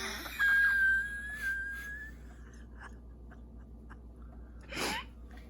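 Someone whistling a single high note, held for about a second and a half and rising slightly at the end. A brief short sound follows near the end.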